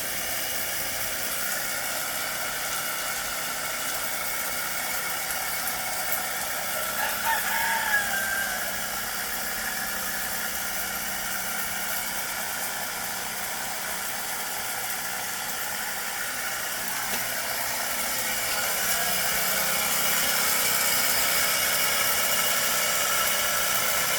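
Small battery-powered pressure washer's electric pump running steadily with a whine, getting a little louder about three quarters of the way through. A rooster crows once about seven seconds in.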